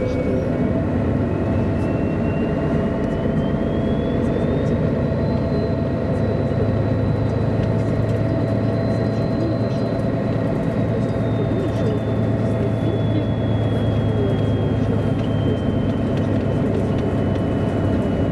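MAN A23 NG313 articulated city bus heard from on board while driving: steady diesel engine and running noise, with a thin high whine that rises over the first few seconds and then slowly falls away.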